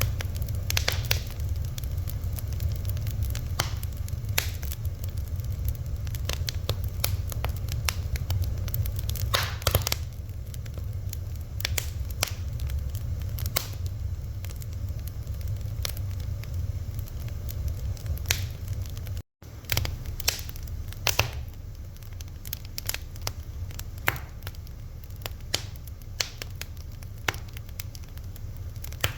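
A fire crackling, with irregular sharp pops and snaps over a low steady rumble. The sound cuts out for a split second about two-thirds of the way in.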